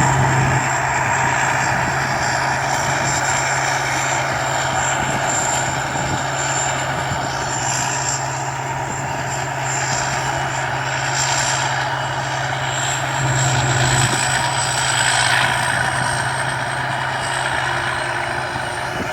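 Rice combine harvester (Thai Seng Yont-built) running steadily while harvesting rice, a constant engine hum with a thin high whine above it.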